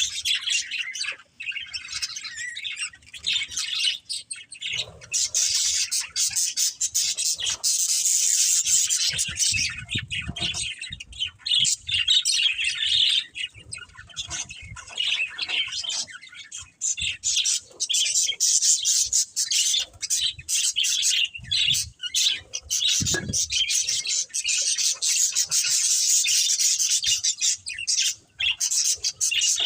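Budgerigars chirping and chattering without a break: a dense, fast run of high warbling calls.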